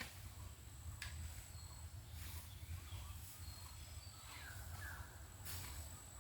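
Faint forest ambience: a few short bird chirps past the middle over a steady thin high-pitched whine and a low rumble, with a few brief rustles.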